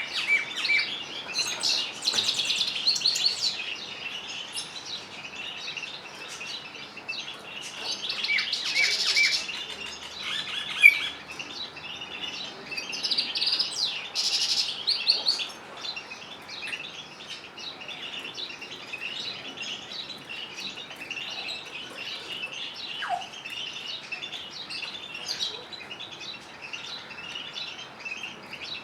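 Canaries and European goldfinches singing: continuous high twittering, with louder rapid song phrases about two, eight and fourteen seconds in. There is a single brief sharp sound, the loudest moment, about eleven seconds in.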